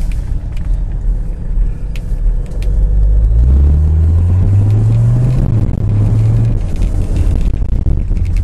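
Straight-piped Mercedes OM617 five-cylinder turbo diesel with no muffler, heard from inside the cabin with the windows up. A low rumble grows louder about three seconds in as the engine pulls harder, its pitch climbing for a couple of seconds before easing back.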